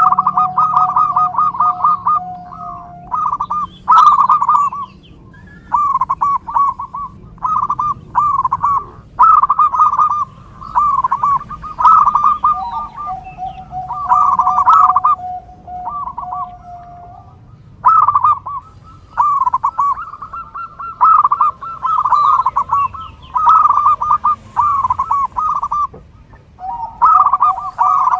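Zebra dove (perkutut) song: phrases of quick cooing notes, repeated over and over with short pauses between, some phrases running on into a long, steady, lower held note.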